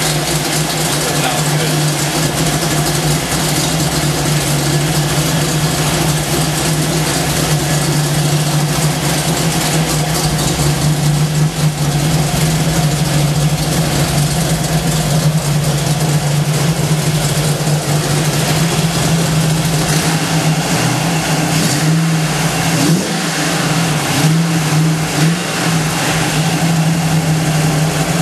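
Ford engine in a Jeep body running steadily, heard up close in the open engine bay.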